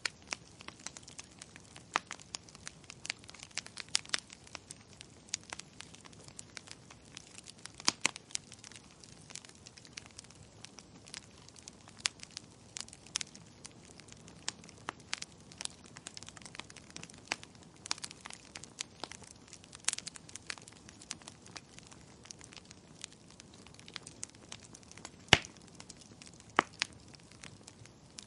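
Wood fire crackling, with irregular snaps and pops over a faint steady hiss, and one louder pop about 25 seconds in.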